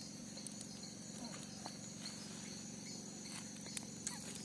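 Crickets chirring steadily, with a few faint clicks.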